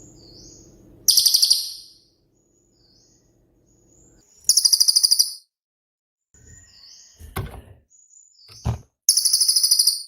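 Cililin songbird singing: three loud, very rapid high-pitched trills ('tembakan' bursts), each under a second long, with softer short rising whistle notes between them. Two low thumps sound in the last few seconds.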